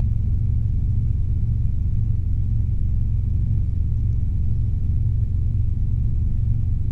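Robinson R22 helicopter in flight, heard from the cabin: a steady low rumble of engine and rotor with a faint constant whine above it, unchanging while the helicopter holds its climb.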